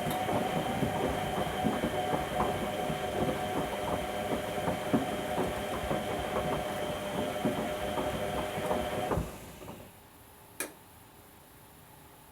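Whirlpool Indiana washing machine tumbling its drum during the wash, the motor whining with steady tones under many irregular knocks as the toy ducks and water tumble inside. The drum stops suddenly about nine seconds in, and a single sharp click follows a little over a second later.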